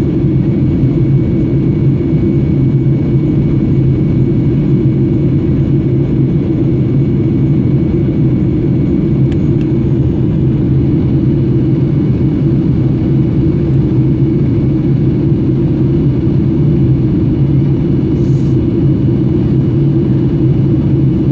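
Airplane cabin noise in flight: the steady, unchanging low rumble of engines and rushing air, heard from inside the cabin.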